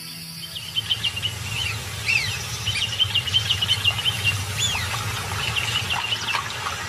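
Wild birds calling: runs of quick high chirping trills and a few short arched whistled notes, over a steady low rumble of outdoor ambience.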